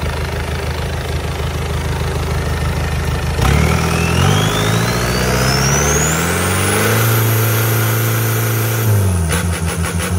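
Isuzu 4JB1 four-cylinder diesel engine idling, then revved up about three and a half seconds in, with a high whine climbing as the revs rise. It holds at high revs for a couple of seconds and drops back to idle near the end.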